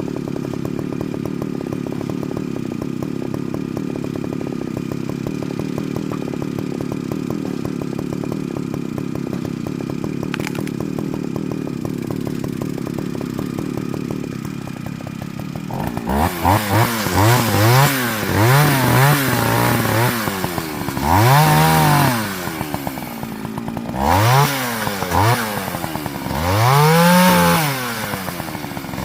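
Partner Farmer two-stroke chainsaw running at a steady pitch for about half the time. Then it is revved up and let back down over and over in short throttle blips.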